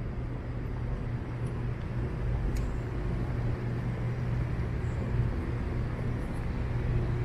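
Steady city traffic noise: cars running on nearby streets under a constant low hum.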